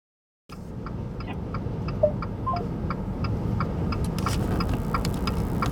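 A steady low rumble, like a vehicle running, starts abruptly about half a second in, with a fast, even ticking about four times a second over it. Two short beeps come around two seconds in.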